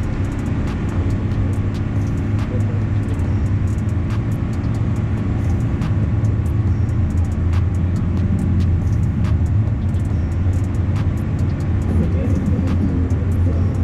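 An engine idling steadily, with a low, even hum and scattered light clicks.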